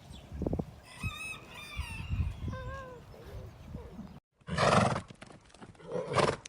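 Animal sounds: a few short pitched calls, then after a sudden cut a horse gives two loud, breathy blasts, the first about a second long and the second shorter, near the end.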